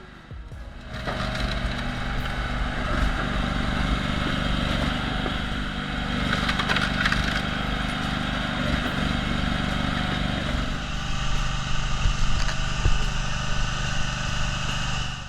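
The engine of a firewood-processing machine running steadily under load. Its pitch shifts slightly about eleven seconds in.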